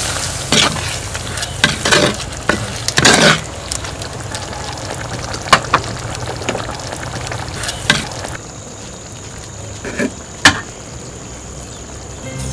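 Food frying: a crackling sizzle with a scatter of sharp clicks and knocks. About eight seconds in the sizzle drops away, leaving a thin steady high tone and a couple of sharp knocks.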